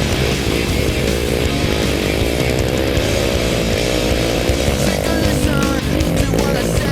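Motocross bike engine revving up and down in quick rises and falls as the rider works through the course, with rock music mixed under it.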